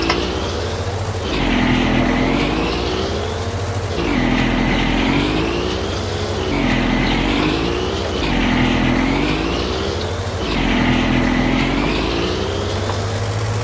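Garden tractor engine running with the mower, its pitch repeatedly dipping and climbing back about every two seconds, then holding steady near the end.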